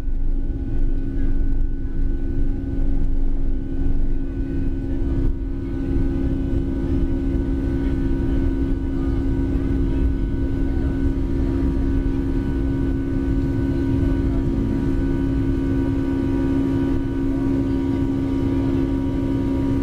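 Boeing 757 cabin noise during the climb after takeoff, heard from inside the cabin: a steady jet-engine drone with a strong low hum and a low rumble. It wavers a little over the first few seconds, then holds even.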